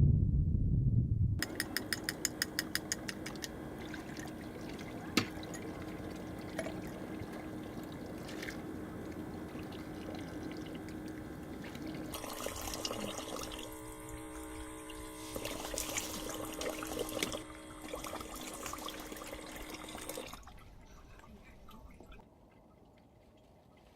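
Liquid being poured and trickling, after a quick run of clicks about two seconds in.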